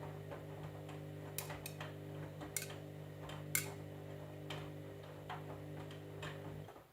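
Candy washing machine running, its motor humming steadily while sharp irregular clicks and taps sound from the drum. The motor cuts off suddenly near the end.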